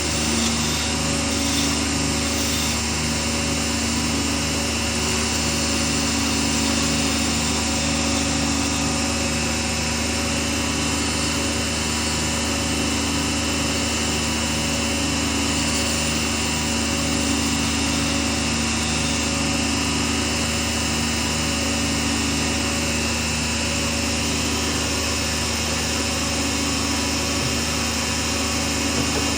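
Small lathe motor running steadily at a constant speed, with an even hum and a regular low pulsing of about two to three beats a second.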